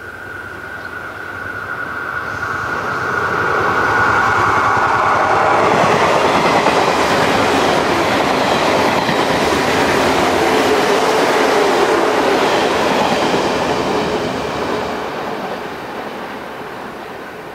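A bonnet-nosed JNR limited-express electric train runs through the station at speed, with a thin steady high whine as it approaches. Its running noise and rail-joint clatter swell to a loud pass about four seconds in, then fade as it draws away near the end.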